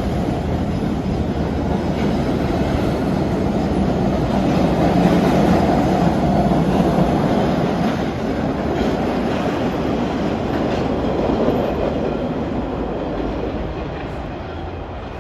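MBTA Red Line subway train running through the station, its wheels rumbling and clattering on the rails. It grows loudest around the middle and fades toward the end.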